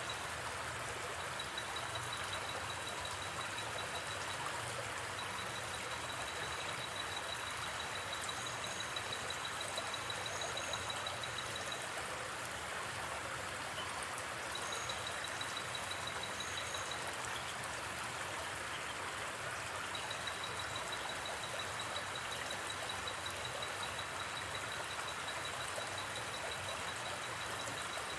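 River water flowing steadily, with a thin, high, pulsing trill from the night forest that stops and starts every few seconds, and a few short doubled chirps above it.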